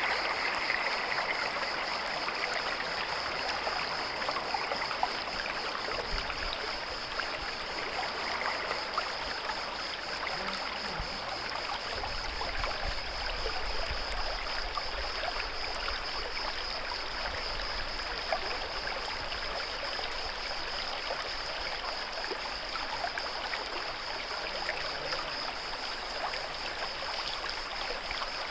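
Natural stream flowing: a steady rush of water with many small splashes, and a steady high-pitched drone running through it.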